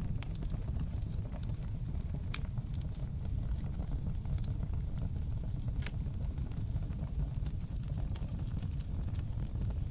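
Wood fire crackling in a fireplace: a steady low rumble of burning with many scattered small pops and snaps. A few sharper pops stand out near the start, about two and a half seconds in, and about six seconds in.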